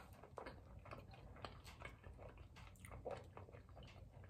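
Faint chewing of a mouthful of food, with scattered small wet mouth clicks at an irregular pace.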